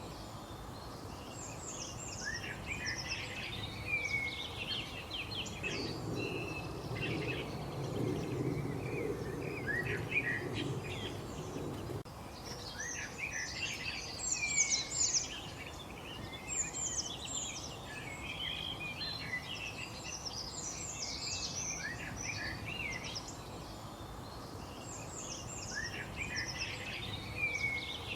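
A chorus of small songbirds chirping and trilling, many short overlapping calls, over a steady low background noise.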